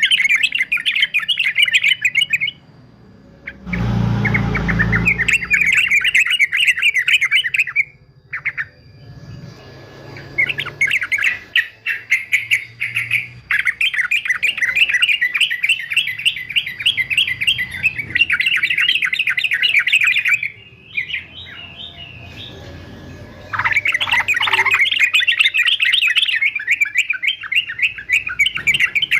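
Male yellow-vented bulbul singing in long bouts of rapid, chattering notes, with short pauses between bouts. A brief low thump or rumble comes about four seconds in.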